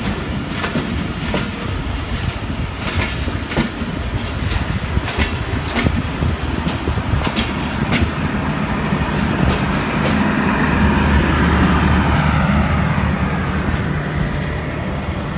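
Passenger train coaches rolling on the rails, a steady rumble broken by repeated clicks of wheels over rail joints. A steady low engine hum grows louder from about nine seconds in and eases off near the end.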